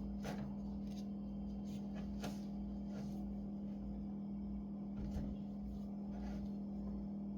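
A steady low hum under a few faint, light clicks and taps scattered through, from small laptop parts and tools being handled.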